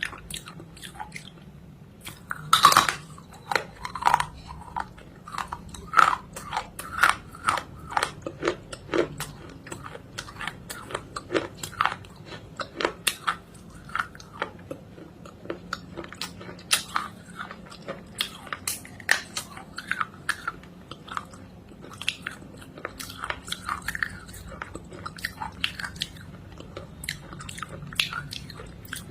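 A person biting and chewing something hard and crunchy close to the microphone: a long run of sharp, irregular crunches, the loudest cluster about three seconds in.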